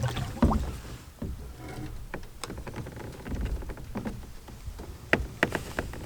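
Water splashing and dripping around a kayak, with scattered knocks and clicks; one heavy thump about half a second in and a few sharp clicks near the end.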